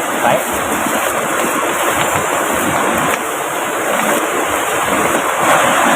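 Steady, dense rush of water from heavy rain and a fast-flowing river.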